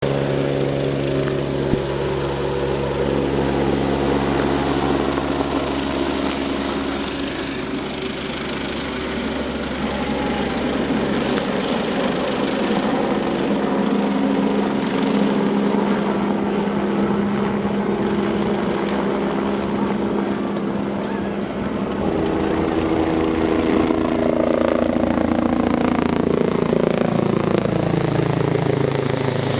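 Helicopter engine and rotor running steadily and loudly. Near the end the pitch falls as it passes by.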